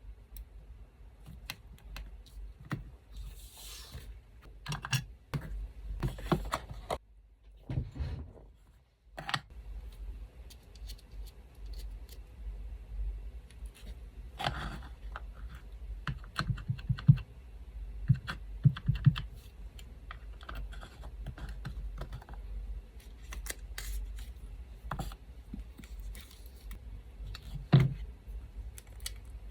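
Paper and small stationery tools being handled at a desk: scattered light taps, clicks and brief paper rustles, over the steady low hum of an electric fan.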